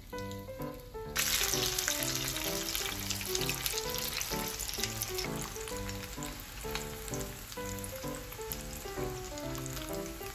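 Karaage chicken pieces frying in hot oil in a frying pan: a loud sizzle with crackles starts suddenly about a second in, then eases a little but keeps going. Background music plays under it.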